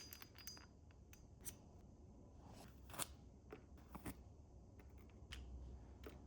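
Faint, scattered clicks and light handling noises, the loudest about three seconds in and again about four seconds in.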